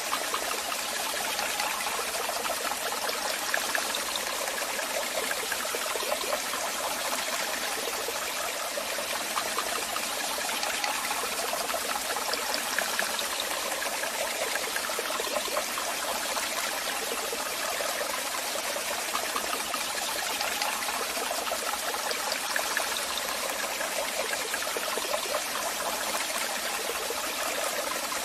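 Waterfall: water falling and splashing in a steady, unbroken rush, bright and hissy with little deep rumble.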